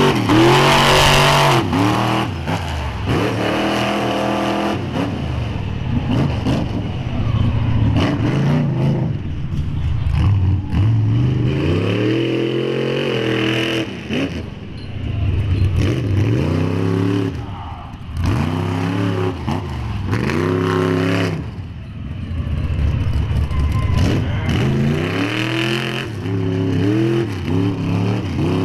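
Mega truck's engine revved hard again and again, its pitch rising and falling every few seconds.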